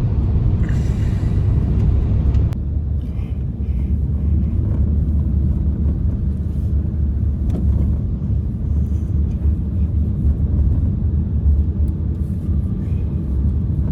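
Strong blizzard wind, a loud, steady, deep rumble.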